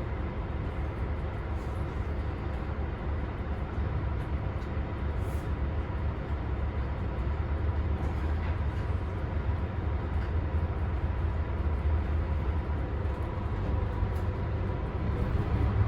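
Scania K320UB bus's diesel engine running, a steady low rumble with a faint steady whine above it, growing slightly louder toward the end.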